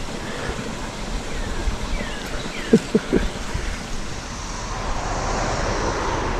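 Steady outdoor rush of creek water and wind, with three short squeaks a little before the middle. A road vehicle passes over the bridge near the end, its noise building.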